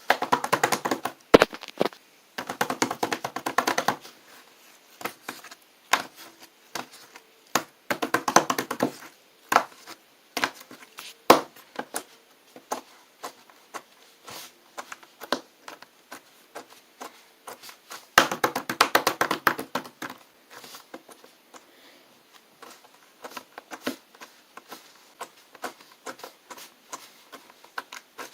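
Hands handling small objects: bursts of rapid crackling clicks, a few seconds each, with scattered single taps between them.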